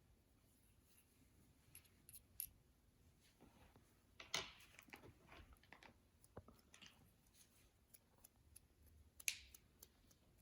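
Slime being handled: a scatter of soft, sticky clicks and crackles, loudest about four seconds in and again near the end.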